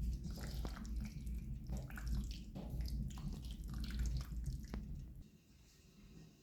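Pasta being tossed and stirred in a pan of blended sauce: wet squelches and small clicks of a utensil against the pan over a low steady hum. The sound stops suddenly about five seconds in, leaving quiet room tone.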